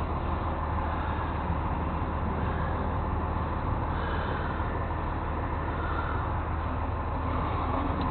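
Truck engine running steadily, a constant low hum with no change in pitch.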